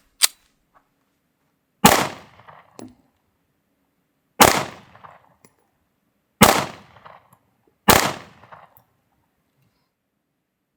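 Four single pistol shots from a compact handgun, fired a second and a half to two and a half seconds apart, each with a short echoing tail, as a red-dot sight is being zeroed. A brief sharp click comes just before the first shot.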